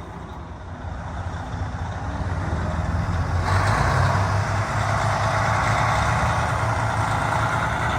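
Heavy truck's diesel engine running, its rumble growing louder over the first few seconds, with a steady hiss that cuts in suddenly about three and a half seconds in and keeps on.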